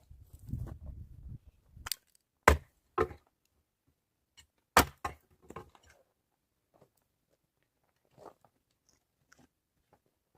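Firewood being chopped: a handful of sharp, single wooden strikes, the loudest about two and a half and five seconds in, then only faint knocks and taps.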